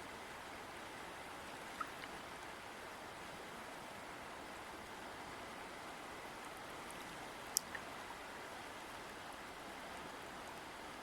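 River water flowing with a steady rush. A few sharp drips or splashes stand out, the clearest about two-thirds of the way through.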